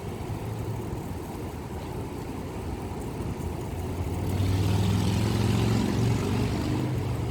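Engine running with a steady low hum; about four seconds in it grows louder and a hiss comes in over it.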